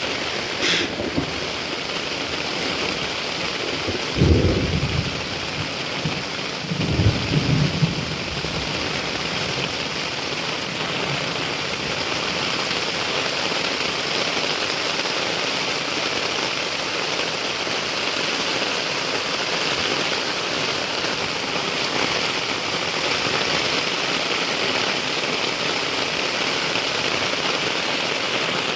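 Heavy rain falling steadily. Two short rumbles of thunder come about four and seven seconds in.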